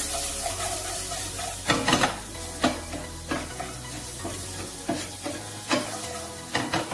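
Potato cubes sizzling as they fry in a pan, while a wooden spoon stirs and tosses them, scraping and knocking against the pan about seven times.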